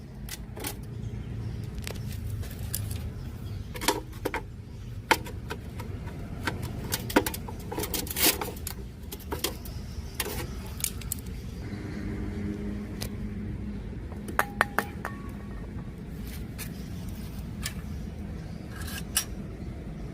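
Irregular clicks, clinks and knocks of small tools and parts being handled during repair work on a Sharp GF560 radio cassette recorder, over a steady low hum.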